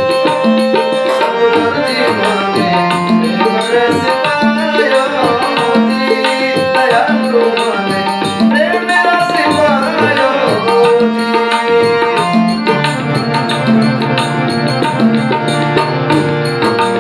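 Instrumental interlude of a Rajasthani devotional bhajan: hand drums such as tabla keep a steady rhythm under a melody played in held notes, with no singing.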